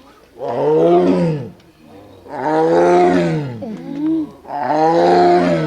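Siberian tiger roaring in a repeated series: three long, moaning calls about two seconds apart, each rising and then falling in pitch.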